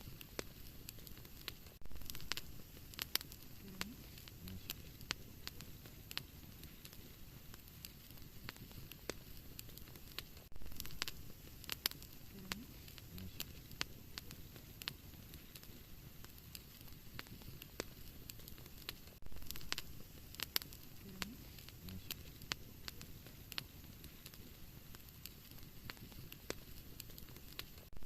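Wood fire burning in a fireplace: a soft hiss with frequent sharp crackles and pops. The same stretch comes back about every eight and a half seconds, as a looped recording.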